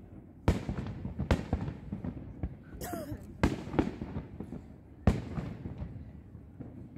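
Aerial fireworks shells bursting in a string of sharp booms, about seven in all. The loudest come about half a second in and about five seconds in.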